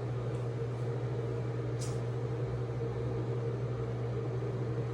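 A steady low machine hum, even in level throughout, with a brief soft rustle about two seconds in.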